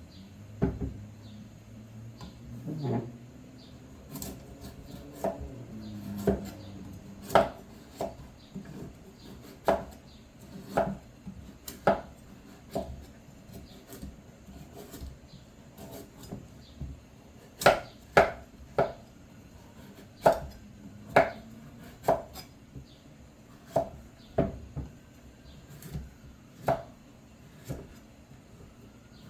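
Knife chopping on a cutting board in irregular strokes, roughly one a second, with a quicker run of strokes about two-thirds of the way through.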